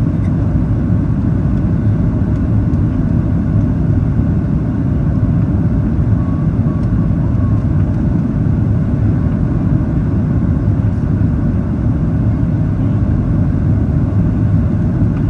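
Steady low rumble inside the cabin of a Boeing 737-800 during landing: engine and airflow noise with the roar of the wheels on the runway.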